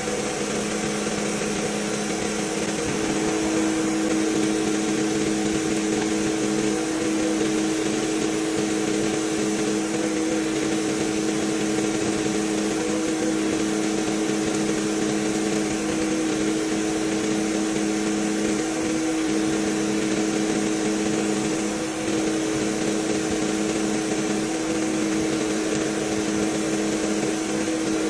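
A workshop machine running with a steady hum, its pitch wavering slightly about every three seconds.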